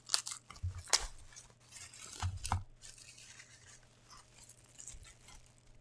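Packaging being torn open and handled: rustling and tearing, with a few sharp crunches and clicks near the start and again about a second and two and a half seconds in.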